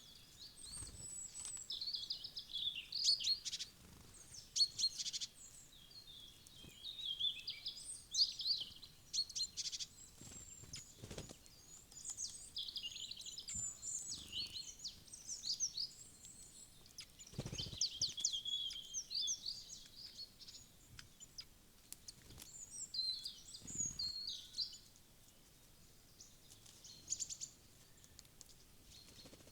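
Small songbirds chirping and calling in a busy stream of short, high notes and quick trills, thinning out near the end. A few brief low thuds come in between.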